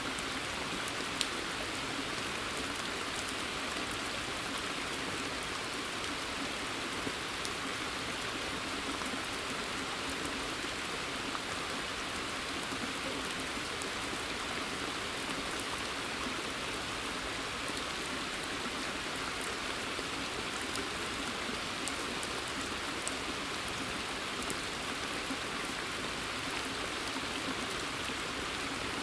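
Steady rain falling in woodland and on a pond, an even hiss with a few sharper single drops landing close by, the loudest about a second in.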